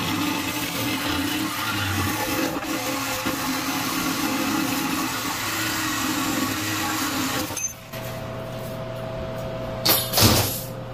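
Angle grinder cutting through steel welds on a backhoe bucket, a steady loud grind that cuts off suddenly about seven and a half seconds in. A steady low hum remains, and near the end come two loud knocks in quick succession.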